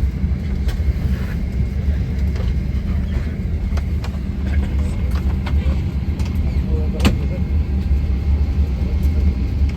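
Steady low rumble inside the cabin of a parked Boeing 767-300 before engine start, with scattered small clicks and knocks, the sharpest about seven seconds in.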